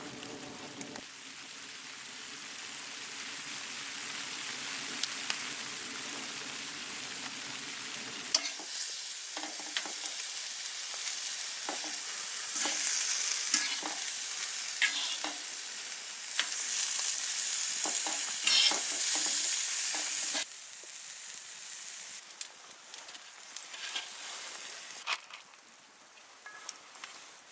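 Food frying in a pan: a steady sizzling hiss with scattered sharp pops, louder for a stretch in the middle. A low hum under it stops abruptly about eight seconds in.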